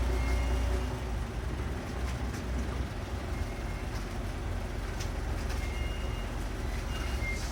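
Ferry boat's engine running with a low rumble that eases off about a second in, then carries on more quietly under a steady wash of noise.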